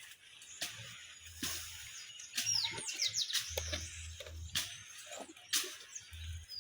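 Small birds chirping in quick falling notes, with a few scattered sharp knocks.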